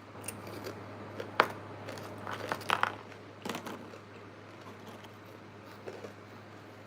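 Close-miked eating sounds: several sharp, crunchy bites and chewing clicks, loudest about a second and a half in, with a cluster of them a second later, over a steady low hum.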